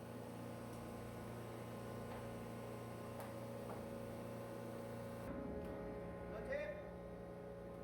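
Steady machinery hum of a ship's steering gear room, several steady tones running together; the tone shifts about five seconds in.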